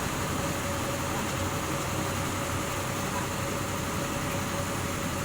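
Steady vehicle running noise: a low engine and road rumble with a constant faint whine.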